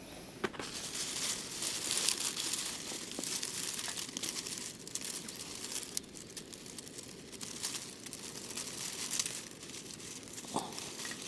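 Continuous crinkling and rustling of something being handled, louder in the first half, with a few sharp ticks.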